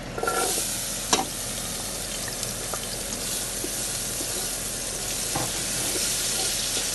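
Chopped onion tipped into hot oil in a pot, starting to sizzle suddenly and going on steadily, with a few sharp knocks of a utensil on the pot, the loudest about a second in.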